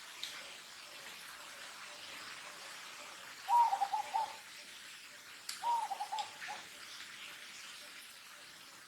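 Two short animal calls about two seconds apart, each a quick run of pulses at one middling pitch, over a faint steady hiss of outdoor background.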